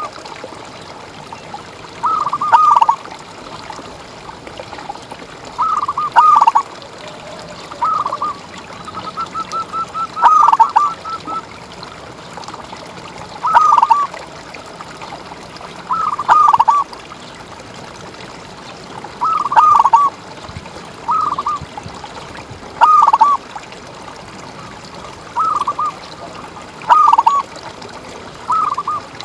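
Zebra dove (perkutut) cooing: about a dozen short phrases of its song repeated every two to three seconds, with a quick run of short notes about nine seconds in.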